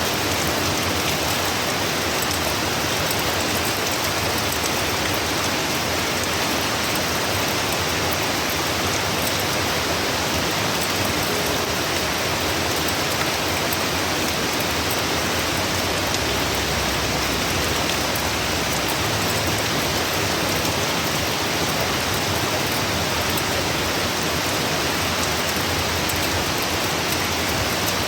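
Heavy, steady rain from a hurricane, pouring down and hissing on surfaces.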